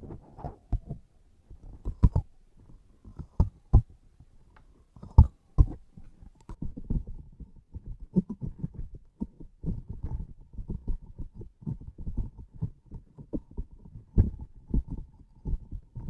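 Sticky transparent objects handled close to the microphone, making soft low squishy thuds and small sticky clicks. A few separate heavier thuds come first, then from about six seconds in a quicker, denser run of taps.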